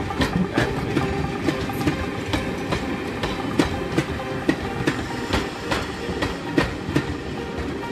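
Railway passenger coaches rolling past close by: a steady rumble of wheels on the track with sharp clicks over the rail joints, about two to three a second.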